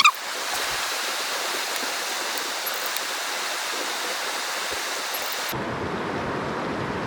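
Rushing river water, a steady even noise. About five and a half seconds in it suddenly turns duller and deeper.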